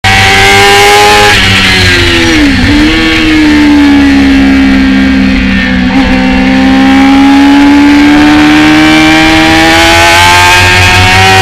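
Motorcycle engine at high revs that drop quickly about a second in, as the rider rolls off and shifts down. The revs then climb slowly and steadily for the rest of the time as the bike accelerates.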